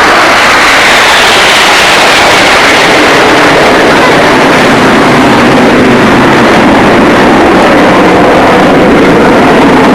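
Fighter jet passing at an air display: loud, continuous jet roar, with a whine that falls in pitch over the first few seconds as it goes by.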